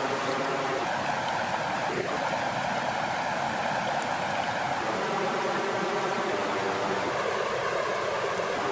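Water flowing in a steady, even rush, with a faint tick about two seconds in.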